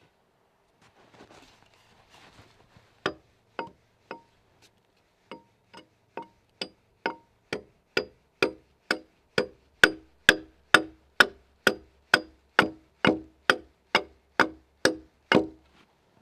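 Axe chopping into a log timber to cut a notch: a steady run of sharp blows, about two a second, starting a few seconds in and getting harder toward the end.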